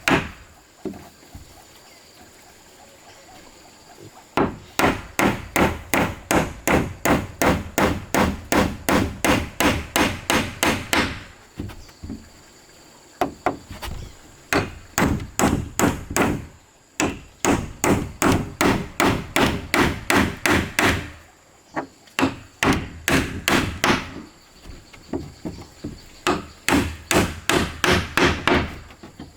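Hammering on wood: quick, even blows at about three a second, in runs of several seconds broken by short pauses.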